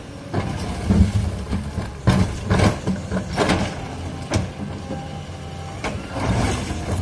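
Caterpillar 320D hydraulic excavator's diesel engine running under load, with about half a dozen bursts of crunching and scraping as it works rock, and a sharp knock a little past the middle.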